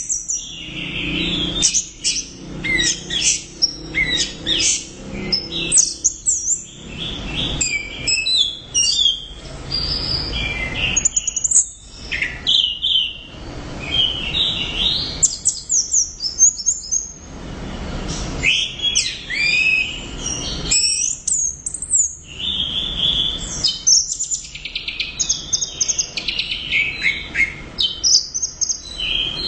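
Orange-headed thrush (anis merah) singing nonstop: a rapid, varied song of whistled and trilled phrases, broken only by brief pauses.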